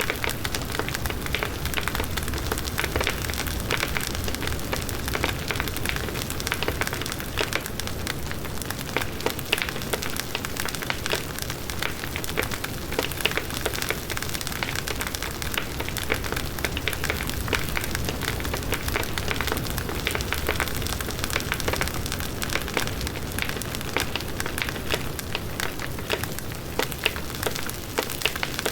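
Large wood bonfire burning steadily, a constant dense crackle of many small pops over the low rush of the flames.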